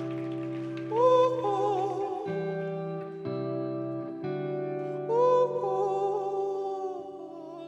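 Slow live band intro: sustained chords changing every second or so, with a wordless vocal line sliding in twice, about a second in and again about five seconds in.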